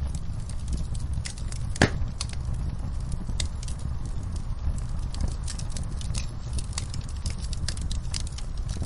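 Fireplace fire crackling with scattered sharp pops, one louder pop about two seconds in, over a steady low rumble.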